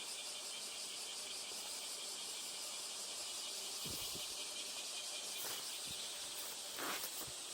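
Insects calling in a steady, high, pulsing chorus, with a few soft low thumps midway and a brief rustling burst near the end.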